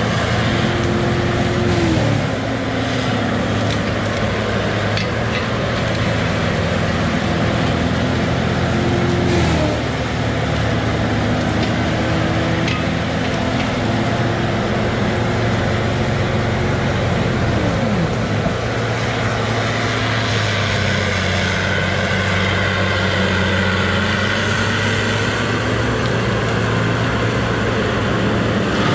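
Diesel engine of a heavy logging machine running hard. Its pitch drops sharply about two seconds in, again near ten seconds and around eighteen seconds, as it bogs under load, with slower dips near the end.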